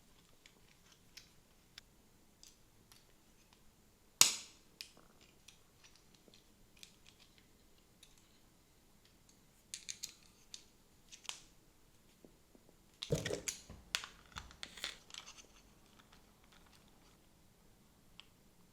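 Handling sounds of an aluminium claw-grip phone mount: scattered small clicks and knocks, one sharp click about four seconds in, and bursts of clicking and rattling near ten seconds and again from about thirteen to fifteen seconds.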